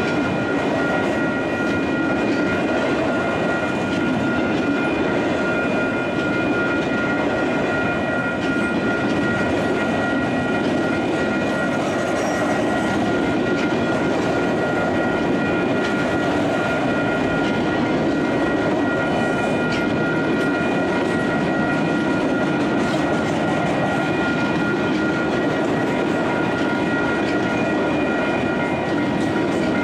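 Autorack freight cars rolling past on steel rails: a steady, continuous rumble and rattle of wheels and car bodies, with a few thin steady high tones over it.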